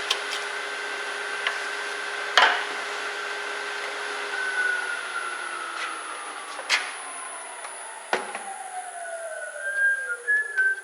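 Wood lathe running with a steady whine once the gouge leaves the wood, then slowing down, its pitch falling steadily over the second half. A few sharp knocks sound over the whine.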